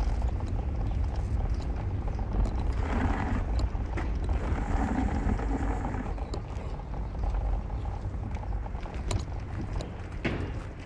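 Car driving: a steady low rumble of engine and road noise, with a louder rush for a few seconds near the middle.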